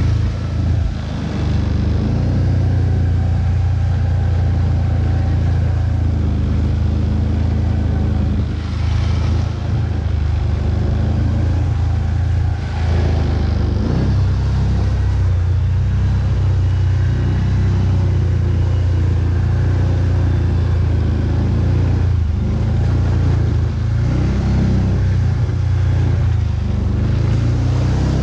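ATV engine running under load as the quad is ridden over rough ground, its drone rising and falling a little with the throttle.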